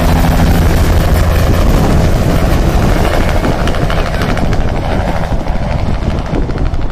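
Bell LongRanger helicopter's rotor and turbine running loud. Its steady low engine tones give way about a second in to a broad rushing noise that slowly gets quieter.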